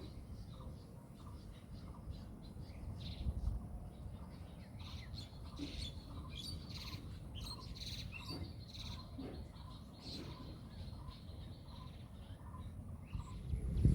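Birds chirping and calling, with a string of short repeated notes and busier, higher calls in the middle, over a steady low background rumble.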